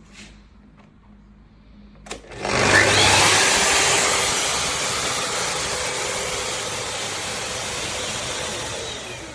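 Makita VC2512L 1300 W wet-and-dry vacuum switched on with a click about two seconds in; its motor spins up and runs with a steady loud rush, then begins to wind down at the very end.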